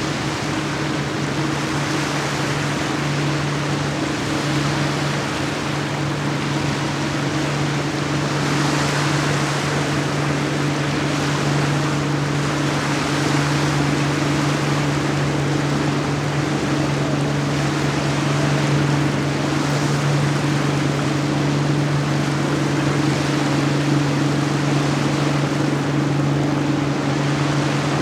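Boat engine running at a steady, unchanging low hum, with the rush of water and wind over it swelling and easing every few seconds.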